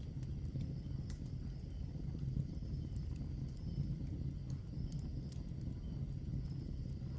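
Log fire burning, with a steady low rush of flames and scattered sharp crackles and pops from the burning wood.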